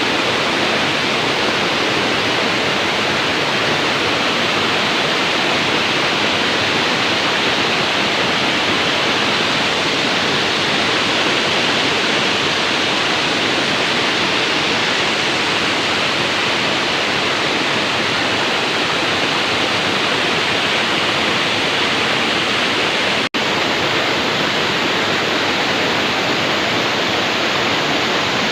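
Waterfall: a loud, steady rush of falling water that breaks off for an instant about three-quarters of the way through.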